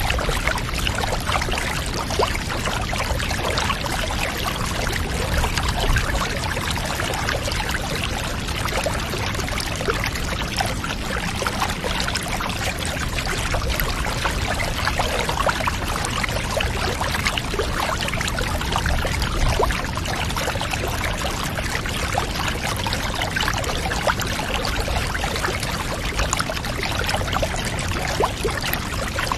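Water pouring and trickling steadily, full of small splashes, over a low steady rumble.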